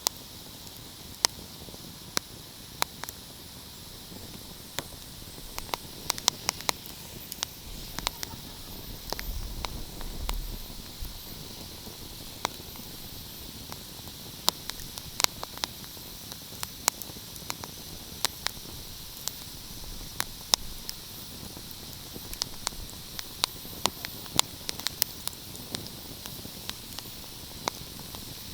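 Wood fire crackling: sharp, irregular pops and snaps, bunching into quick clusters at times, over a steady soft hiss.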